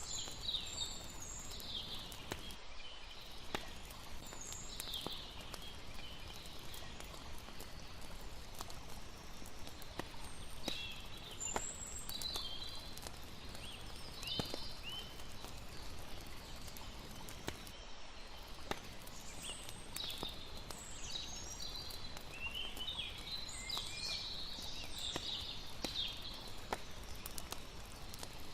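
Layered night ambience: a steady rush of flowing water under frequent small crackles of a campfire, with short bird chirps coming and going, busiest near the end.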